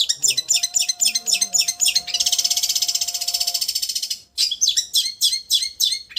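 Long-tailed shrike (cendet) song in the trilling 'raja getar' style: a rapid run of sharp high chirps breaking into a fast, dense trill. After a brief pause about four seconds in, the chirps start again and run into another trill near the end.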